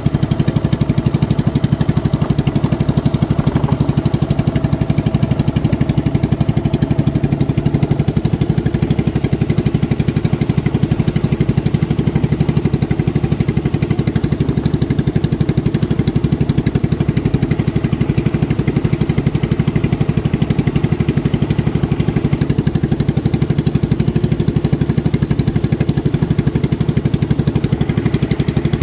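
Boat engine running steadily at speed, a loud, even, fast-pulsing drone.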